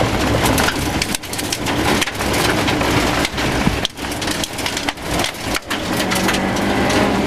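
Rover 214 rally car's engine running hard at speed on a gravel stage, heard inside the cabin, with stones and gravel rattling and clicking continuously against the car's underside and wheel arches.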